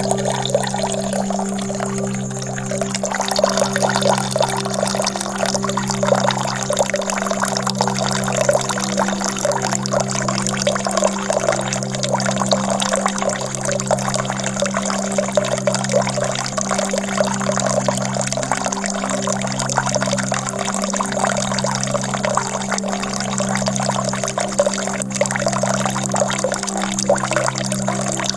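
Steady pouring, flowing water, with a low musical drone under it that swells and fades about every two seconds.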